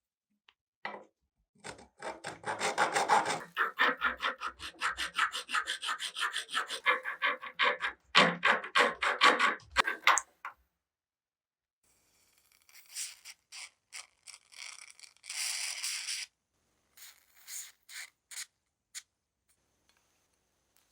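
Rapid back-and-forth hand strokes abrading the rusty metal of an old cheese grinder, four to five strokes a second. After about eight seconds they stop briefly, then resume lighter and more spaced out.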